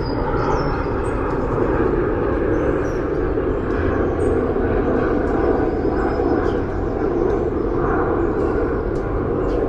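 Steady drone of city traffic, with small birds chirping faintly and intermittently above it.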